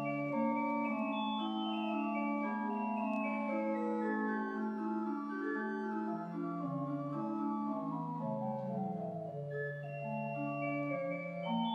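Pipe organ playing slow sustained chords, with a bass line that steps down and climbs back near the end.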